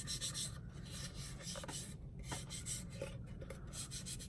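Hands rubbing and smoothing a wrapping along the edges of a small wooden painting board, a series of uneven scratchy strokes.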